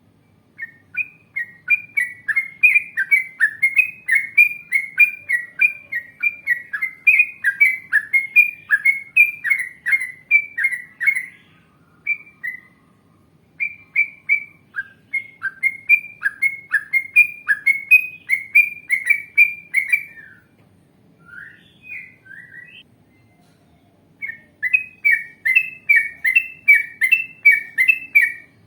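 Yellow-vented bulbul (trucukan) singing long runs of quick, rolling notes, about three a second. The song comes in three long phrases with short breaks between them.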